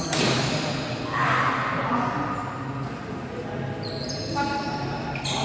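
Badminton being played on an indoor court: a sharp racket hit on the shuttlecock at the start, then short high shoe squeaks on the court floor near the end, with voices around the court.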